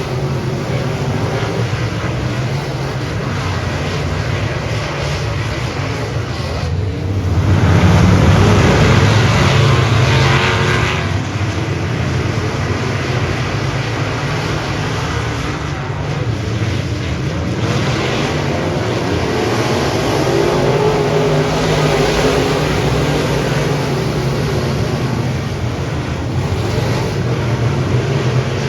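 Dirt modified race car engines running hard on the track, a steady loud drone with a noisy rush over it, swelling louder for a few seconds about a quarter of the way in.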